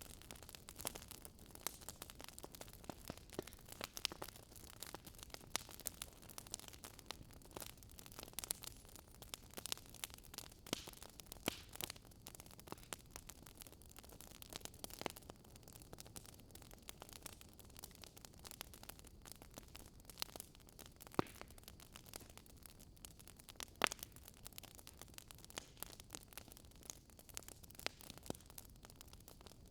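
Wood fire crackling: a faint steady hiss with frequent irregular small pops and a few sharper, louder snaps.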